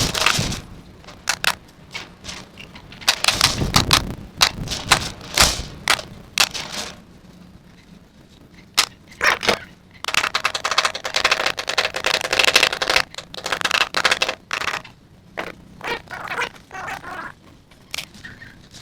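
Irregular sharp clicks and knocks of hand-tool work fastening chicken wire mesh and tin sheet, coming in clusters. Partway through there is a denser stretch of rattling.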